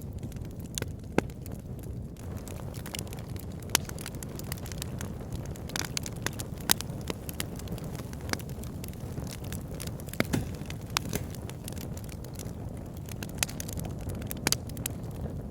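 Wood fire burning in a log burner: a steady low rumble of flames with irregular crackles and sharp pops from the burning logs, a few louder snaps standing out.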